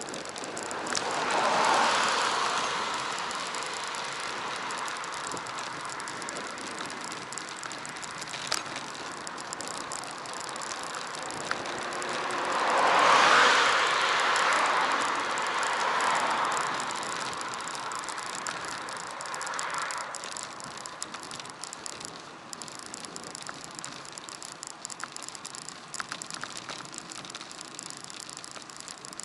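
Bicycle ride heard from an action camera on the bike: steady rolling and wind noise, with two louder swells that rise and fade, about two seconds in and again around thirteen seconds in, and a few faint ticks.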